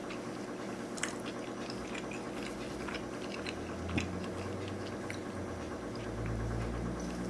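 Close-miked chewing of sushi rolls: soft, wet mouth sounds with a few small clicks. A low hum comes in near the end.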